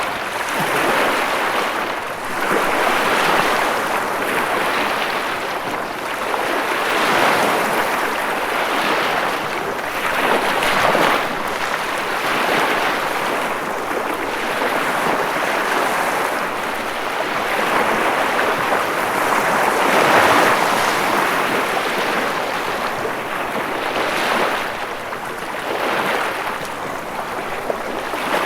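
Ocean waves breaking and washing in continuously, the surf swelling and easing every few seconds.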